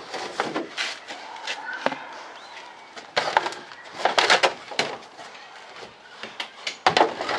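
Irregular knocks and clatter of stored items being shifted and handled, with a busy cluster of knocks midway and another near the end.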